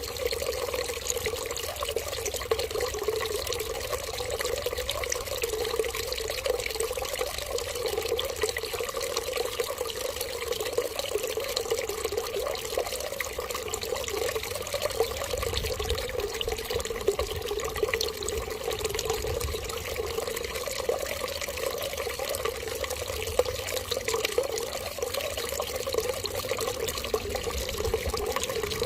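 Running water pouring in a steady, unbroken stream.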